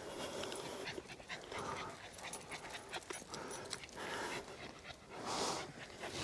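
Dog panting softly, a few breaths spaced a second or two apart, with faint small clicks and rustles between them.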